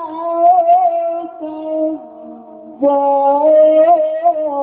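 A Quran reciter's voice chanting in melodic mujawwad style, drawing out a long ornamented note with wavering pitch. About two seconds in it sinks to a lower, quieter note, then comes back louder and higher near the three-second mark.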